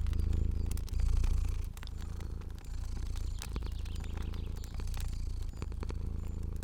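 Cat purring: a low steady rumble that swells and eases with each breath, about once a second. Crackling fire over it, with scattered sharp clicks and pops.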